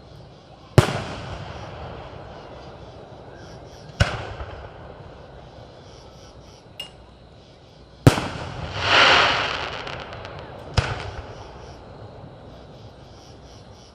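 Fireworks display: aerial shells bursting in sharp booms every few seconds, four loud ones and a smaller one, each trailing off in an echo. A hiss swells and fades for about a second and a half just after the third loud burst.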